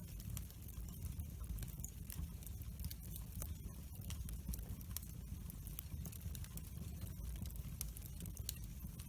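Wood fire burning in a fireplace: a low steady rumble of the flames with frequent irregular crackles and pops from the burning logs.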